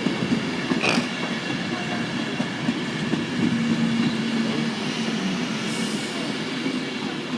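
Passenger train running through the station platform, a steady rumble of wheels and motors with a faint steady tone. A sharp click about a second in and a short high hiss near six seconds.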